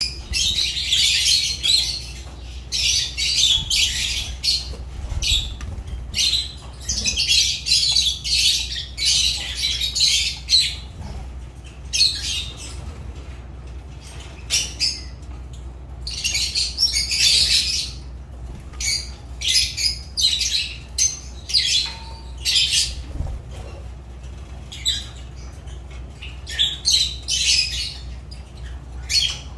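Lovebirds calling: runs of short, shrill, high-pitched calls in quick clusters, with brief pauses between.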